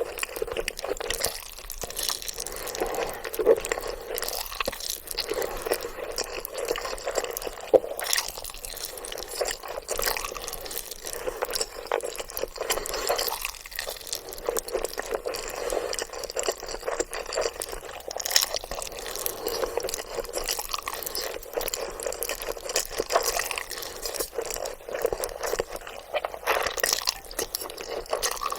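Close-miked wet eating sounds of black bean noodles (jjajangmyeon) being slurped and chewed: a dense, continuous run of sticky smacks and clicks.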